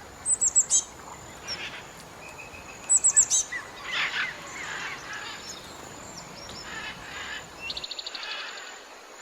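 Several birds calling. Two quick bursts of four or five sharp, high chirps about three seconds apart are the loudest sounds, with softer calls in between and a fast trill near the end, over a steady background hiss.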